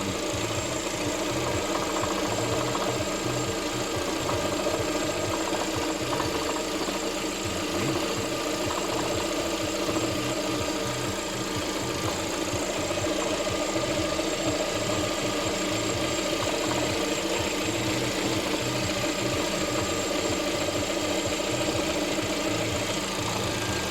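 Car engine idling steadily with a knock running through it.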